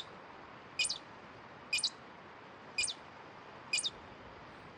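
Short high-pitched chirp repeated evenly about once a second, six times, over a steady hiss. The sound cuts off abruptly at the end.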